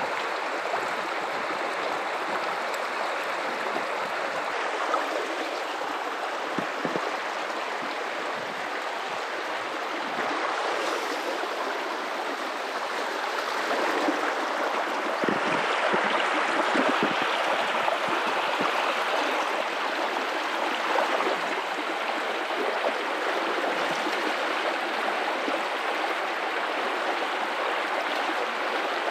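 Guadalupe River water running and rippling over rocks, a steady rushing with small gurgles and splashes, swelling somewhat louder about halfway through.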